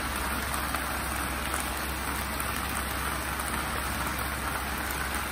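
Stir-fried rice noodles and vegetables sizzling steadily in a wok over a high gas flame.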